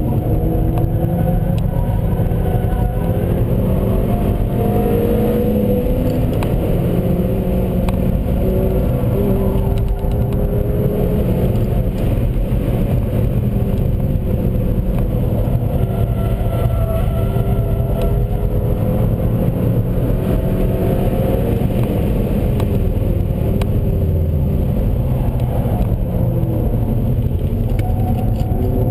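Seat León Cupra 1P's turbocharged 2.0-litre four-cylinder engine driven hard, its revs climbing and dropping again and again through the gears, over a constant low rumble of road noise.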